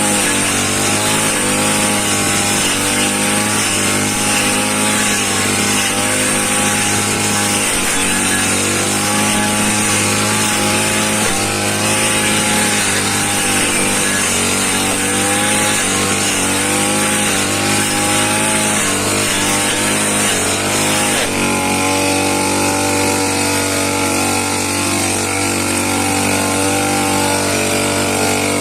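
Small petrol engine of a land-clearing power tool running steadily at high speed, its pitch wavering slightly as the load changes, with a shift in pitch about 21 seconds in.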